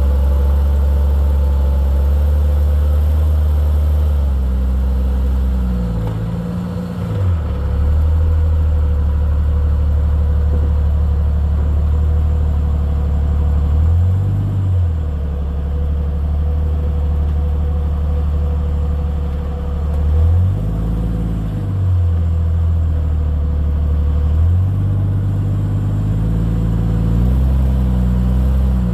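Jeep Cherokee XJ engine pulling at low speed while rock crawling, with about five brief throttle blips in which the pitch rises and falls back.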